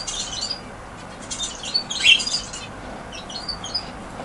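Budgerigars chirping in short scattered bursts of quick high chirps, loudest about two seconds in.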